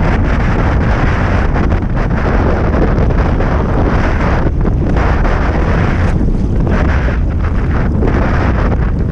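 Strong wind buffeting the camera's microphone: a loud, steady rumble heaviest at the low end.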